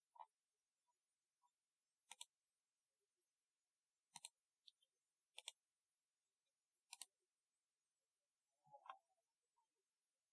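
Typewriter-style keyboard keys pressed one at a time, a few seconds apart: about six crisp, sharp clicks, one of them a quick double, with near silence between.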